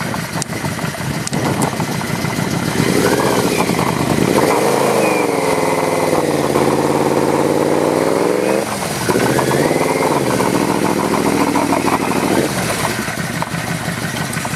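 Motorcycle engine under way, its pitch rising and falling as the throttle is worked, with a brief drop in revs about nine seconds in, like a gear change, over steady wind and road noise.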